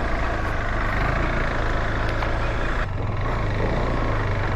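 Motorcycle engine running steadily under way, with a steady rushing noise over it. The sound dips briefly about three seconds in.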